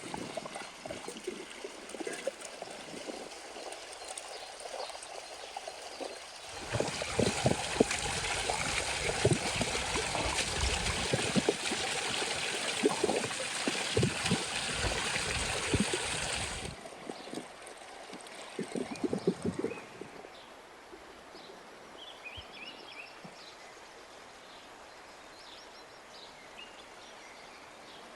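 Water running for about ten seconds, starting and stopping abruptly, with scattered knocks. Afterward it is quieter, with a few knocks and faint bird chirps near the end.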